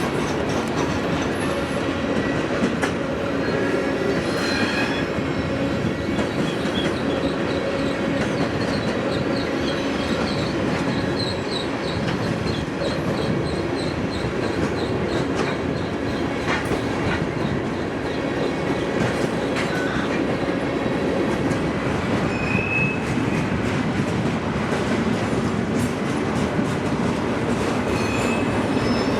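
CSX freight train's cars rolling past: a steady rumble of steel wheels on rail with clickety-clack over the joints and a couple of brief, high wheel squeals near the end.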